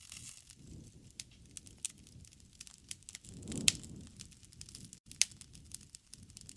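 Wood fire crackling, with scattered sharp pops over a low rush of flame. The loudest pop comes about halfway through, with the flame noise swelling around it, and another sharp pop follows about a second and a half later.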